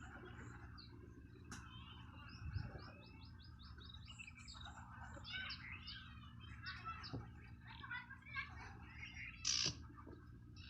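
Birds chirping and calling, with a quick run of high repeated chirps about four seconds in and a louder, sharper call near the end, over a low steady hum.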